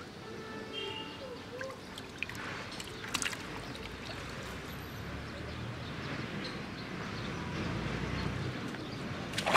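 Water sloshing and splashing in shallow muddy water, with a sharper splash about three seconds in and another near the end.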